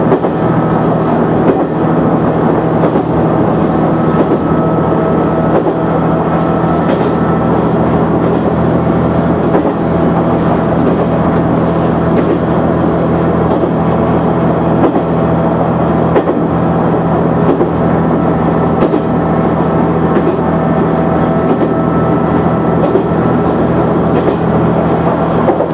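KiHa 100 diesel railcar running steadily along the line, heard from on board: a constant diesel engine drone with wheels clicking over the rail joints.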